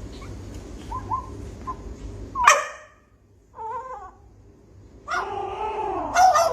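A dog calling: one loud, sharp bark about two and a half seconds in, then shorter wavering whines.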